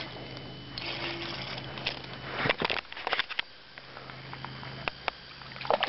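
A hooked fish being brought up to the boat and landed: a cluster of knocks and splashy clatter about two and a half seconds in, another knock near the end, over a steady low hum.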